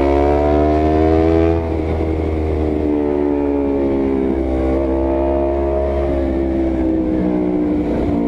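Honda CBR250RR engine through an R9 GP series full-system aftermarket exhaust, loud, pulling hard under acceleration with its pitch rising, then dropping suddenly about a second and a half in. It climbs slowly again and eases off near the end.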